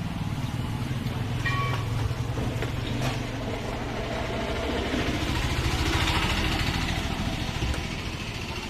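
A steady low motor hum with an even drone, and a hiss that swells about halfway through, with a few short clicks.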